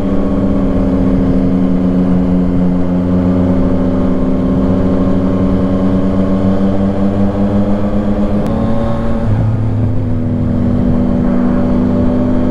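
Motorcycle engine pulling steadily under way, its pitch creeping up slowly, then dropping suddenly about eight and a half seconds in with a faint click as the rider shifts up a gear, and running steadily again after.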